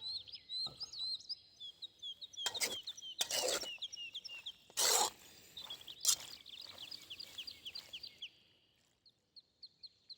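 Small songbirds chirping and trilling in quick, repeated high notes, with a few short noisy bursts in the middle and a brief lull near the end.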